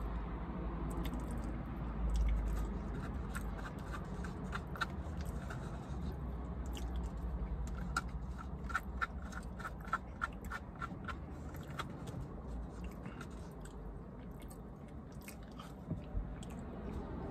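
A person chewing food with the mouth close to the microphone, with a run of small wet clicking sounds in the middle, over a low steady hum.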